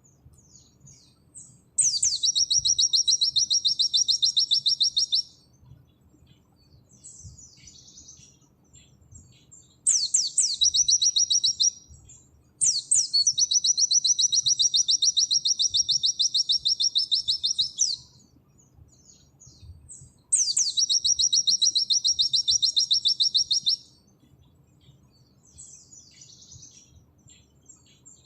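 A white-eye (pleci) sings in long, rapid, high trilled phrases in the 'nembak' style. There are four phrases of about two to five seconds, each opening with a sharp downward-sweeping note, with softer short chirps in the gaps.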